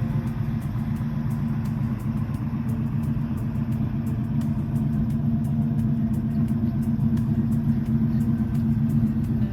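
Plymouth Belvedere's modified 383 V8 engine running steadily at idle, a continuous low rumble.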